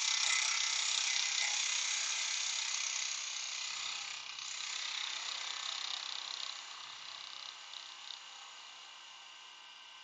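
Spalted beech blank spinning on a wood lathe with a tool or abrasive held against it: a steady, dense rasping hiss that fades away over the second half.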